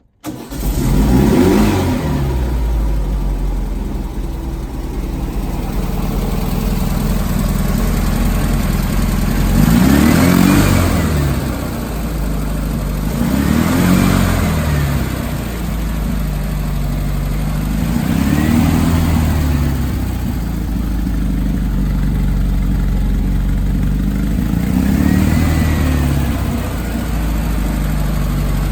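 Beck 550 Spyder replica's engine starting from cold: it catches at once and idles, and is revved up and back down five times.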